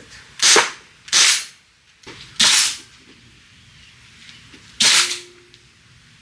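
Four gunshots from a small shooting-range gun: two close together near the start, a third about a second later and a fourth near the end.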